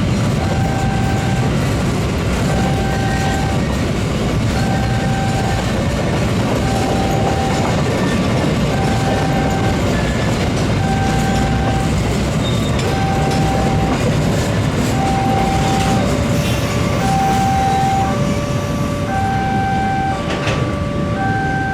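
Long Indonesian train running past with steady wheel and rail noise. Over it, an electronic level-crossing warning alarm repeats a two-note tone, about one note a second.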